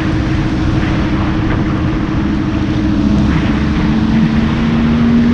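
Lamborghini Huracán's V10 engine running at a steady, moderate pitch under heavy road and wind rumble, its note rising slightly about three seconds in.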